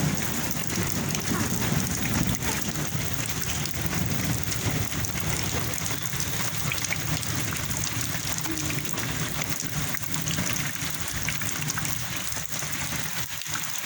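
Rain falling steadily, an even hiss of drops on surfaces, with a low rumble underneath that fades out about halfway through.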